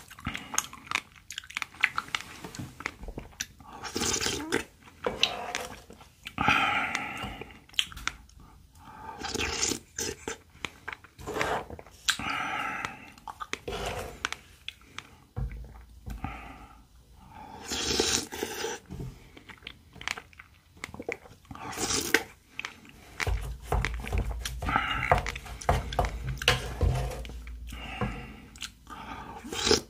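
Close-miked chewing and crunching of shaved milk ice and fresh strawberries, in irregular mouthfuls, with a wooden spoon scooping from the pan now and then.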